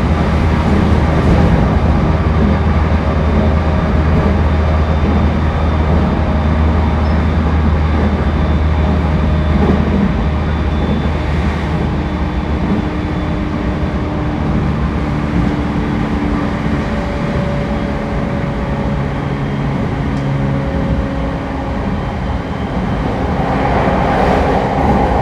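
Interior running noise of an E231 series 1000 electric commuter train under way: a steady rumble of wheels on rail with faint motor tones coming and going. The low rumble is heavier for about the first ten seconds, then eases.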